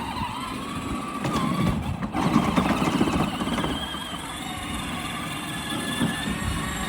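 Children's battery-powered ride-on tractor's electric drive motors whining steadily under load while it is stuck, with a rougher rush of noise about two seconds in.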